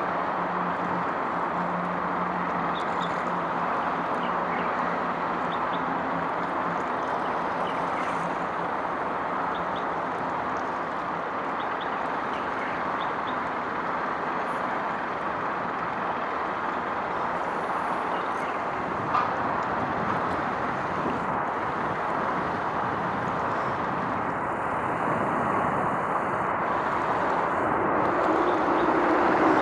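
Steady roar of distant vehicle traffic, with a low hum in the first few seconds and the noise growing louder near the end.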